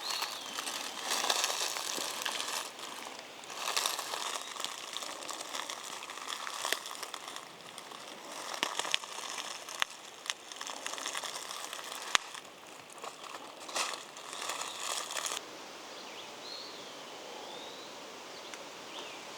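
Footsteps crunching and rustling slowly through dry leaf litter, in irregular bursts with a few sharp snaps. They stop abruptly about 15 seconds in, leaving a quieter steady forest background with a few short, high curving whistled notes.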